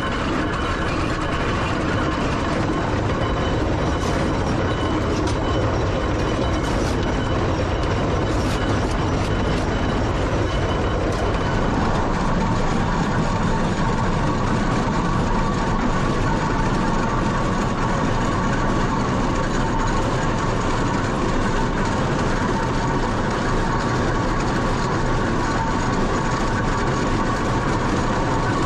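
Steam traction engine running on the road, a steady mechanical running noise. About twelve seconds in, the sound changes and a steady higher tone joins it.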